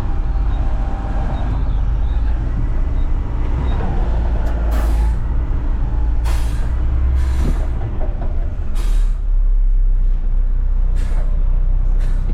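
Front-load garbage truck's engine running steadily, with five short, sharp hisses of released air.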